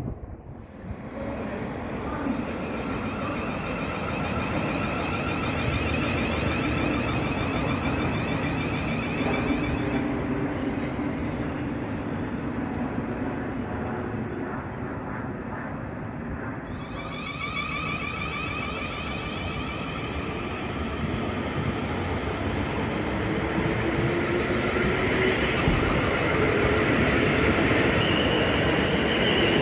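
A passing train: a steady rumbling noise with faint whines that shift in pitch, growing louder over the last few seconds.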